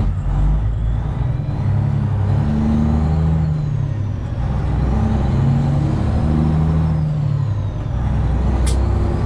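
Straight-piped Detroit Diesel 12.7-litre engine of a Freightliner Classic XL semi truck running under way. Its note steps up and down, with brief dips about four and eight seconds in, as the truck pulls through its 13-speed gearbox.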